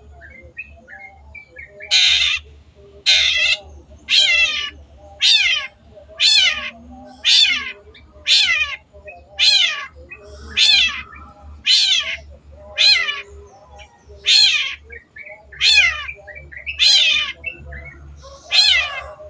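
Long-tailed shrike (cendet) giving a series of about fifteen harsh, grating calls, roughly one a second, each falling in pitch. Fainter chirps run underneath.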